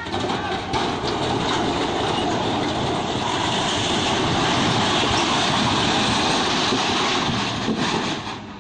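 Loud, steady rumbling noise of a heavy vehicle passing close, building through the middle and fading away near the end.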